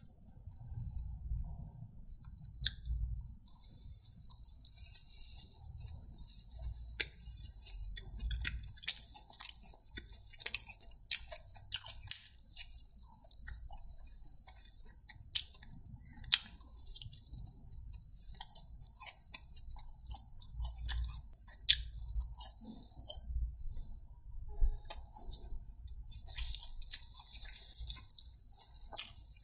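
A person chewing and biting food, with many sharp mouth clicks over a low chewing rumble and a denser stretch of crackling near the end.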